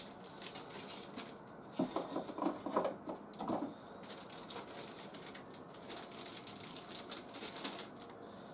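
Plastic toy packaging crackling as toy parts are handled and unpacked, with a few short squeaks about two to three and a half seconds in.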